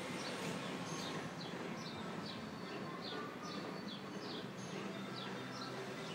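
A bird chirping over and over in short falling chirps, two or three a second, over steady background noise.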